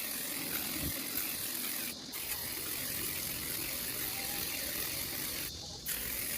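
Aerosol can of Armor All Extreme Tire Shine spraying in long steady hisses onto truck tires, the nozzle let go briefly about two seconds in and again near the end.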